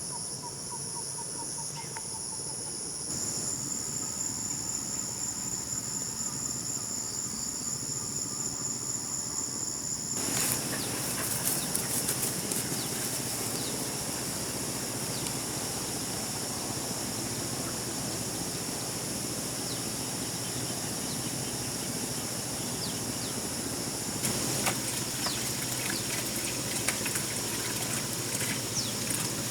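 Outdoor insect chorus: crickets or cicadas keep up a steady high-pitched trill. About a third of the way through, a broad hiss with scattered sharp clicks joins in.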